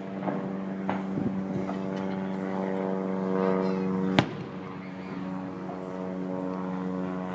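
Propeller airplane droning steadily overhead, with a few firework bangs, the loudest about four seconds in.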